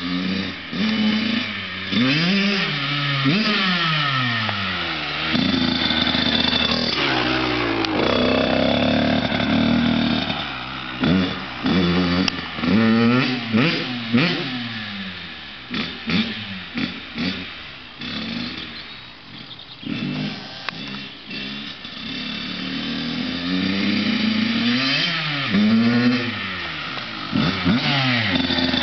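Motocross bike engine revving up and down repeatedly, its pitch rising and falling many times, with a run of quick throttle blips in the middle.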